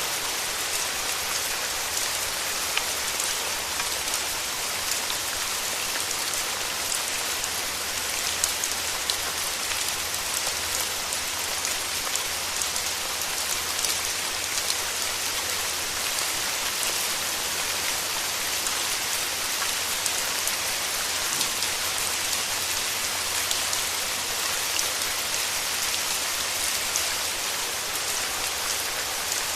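Steady heavy rain falling on foliage, an even hiss with many individual drops ticking through it.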